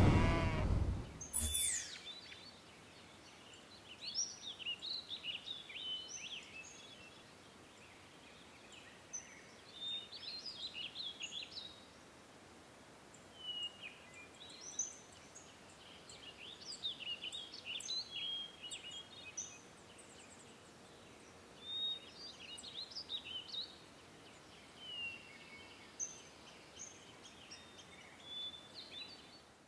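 Songbirds singing: short phrases of quick, high chirps every few seconds over a quiet background hiss. Music fades out during the first couple of seconds.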